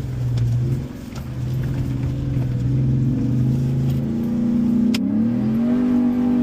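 Gen 1 Ford F-150 Raptor's V8 engine under throttle on a dirt course, heard from inside the cab: its note dips about a second in, holds, then climbs again near the end. Light rattles and clicks sound over it.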